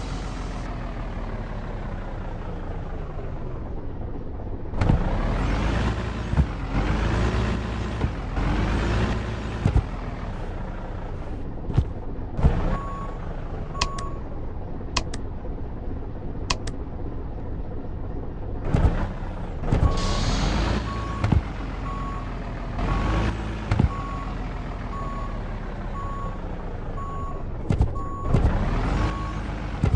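Truck engine revving up and dropping back again and again as it pulls through its gears. A short electronic warning beep repeats at an even pace, briefly near the middle and steadily through the last third, with a few sharp clicks in between.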